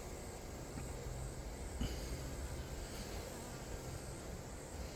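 Honeybees buzzing steadily around a hive box full of a newly hived swarm, with a single brief click about two seconds in.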